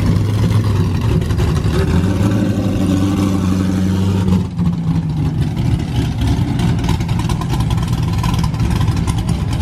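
Car engine with a big camshaft idling with a loping, choppy idle, 'chopping'.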